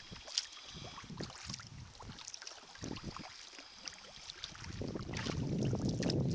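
Sea kayak paddling: irregular splashes of paddle and water against the hull, with wind buffeting the microphone that grows stronger about five seconds in.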